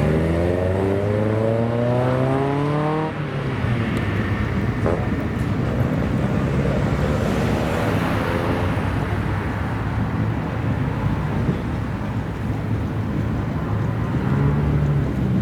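Car engine accelerating, its pitch rising for about three seconds before dropping away, followed by a wash of engine and road noise that swells and fades in the middle, as of a car going past.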